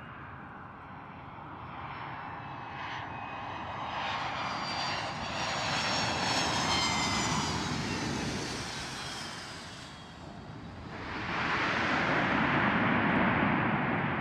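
Airplane engines passing close by, a high whine falling in pitch as the noise peaks and fades, followed by a loud, steady rush of engine noise in the last few seconds.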